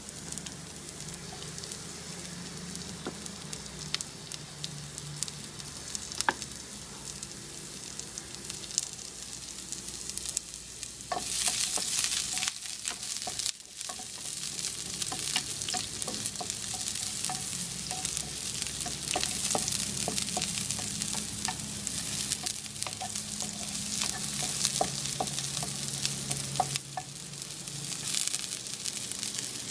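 Sliced shallots and garlic sizzling in a little oil in a non-stick wok, fried until fragrant, with a wooden spatula scraping and tapping the pan as they are stirred. The sizzle grows louder about eleven seconds in.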